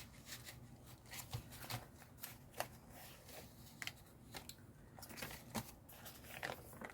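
Faint, scattered rustling and light clicks of paper and card as the pages and cards of a handmade junk journal are handled and turned.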